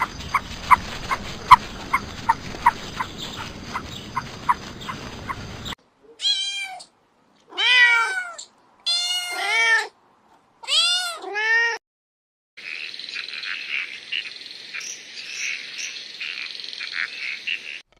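A domestic cat meowing about five times in a row, each meow a rise and fall in pitch. Before the meows comes a run of short, evenly spaced chirps over a hiss, about three a second. After them comes a stretch of noisy sound with faint chirping.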